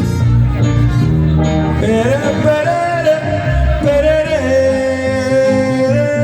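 Live band music: a long held melody note slides up about two seconds in and holds for several seconds over the band's accompaniment.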